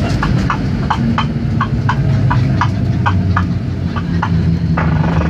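Steady low rumble inside the cabin of a Boeing 737-700 rolling on the runway after landing, with a regular sharp clicking about four times a second.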